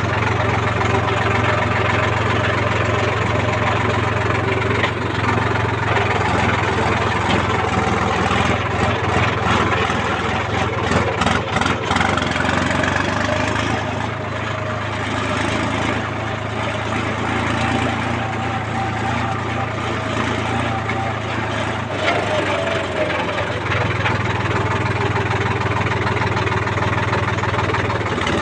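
Diesel engine of heavy machinery running steadily, its level dipping slightly for a while past the middle. A few sharp clicks or clatters come between about 8 and 12 seconds in.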